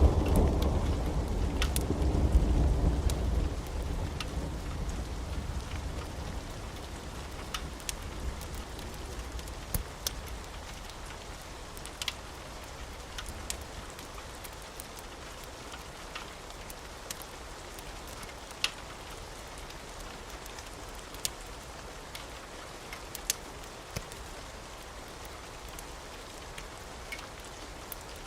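Thunder rumbling and fading away over the first few seconds, over a steady hiss of rain, with scattered sharp pops from a crackling wood fire.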